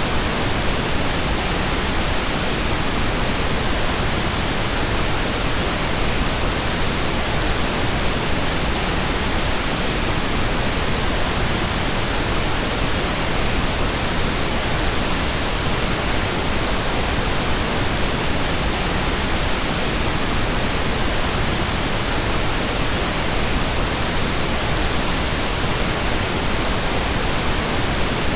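Steady pink noise: an even, unchanging hiss spread across the whole range of pitch, with no breaks or events.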